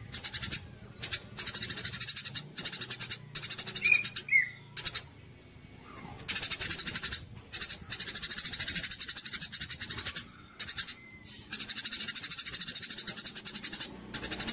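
A small songbird singing fast, high, rattling trills in bouts of one to two seconds with short pauses between them.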